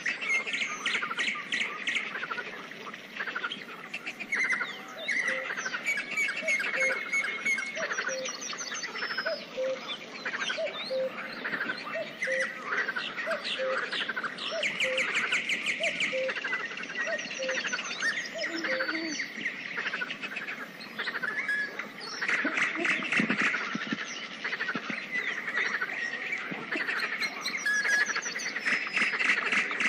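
Pond ambience: a chorus of many birds singing and calling at once, with trills and chirps overlapping, and a low note repeating about once a second through the middle stretch.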